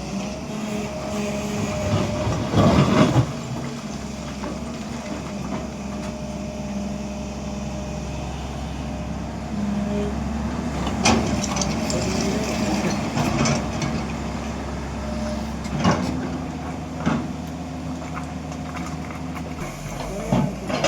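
Hydraulic excavator's diesel engine running steadily with a constant hum. Several sharp knocks come through it, near the start, about halfway and again later.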